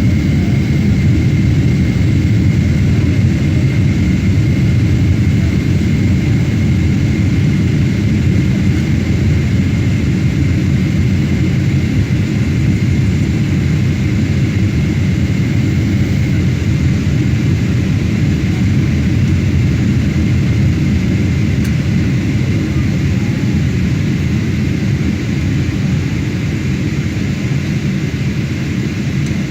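Boeing 777-300ER jet airliner: a steady, loud, low rumble with a faint, steady high whine that lasts throughout.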